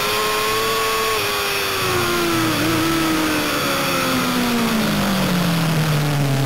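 Racing motorcycle engine heard from onboard, its pitch falling steadily as the bike slows for a corner, with a couple of small steps along the way, then holding low and steady near the end.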